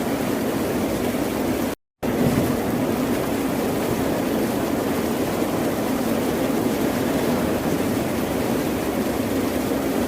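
Ocean surf: a steady, continuous wash of waves, broken once, about two seconds in, by a brief cut to dead silence.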